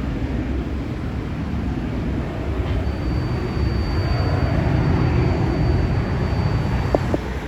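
Steady low rumble of jet airliner engines, with a thin high whine about three seconds in that stops shortly before the end, followed by two short knocks.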